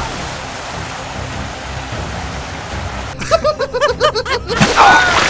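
A steady rushing noise with a low rumble, then about three seconds in a quick, high-pitched cartoon giggle of short repeated notes, with one more voiced sound near the end.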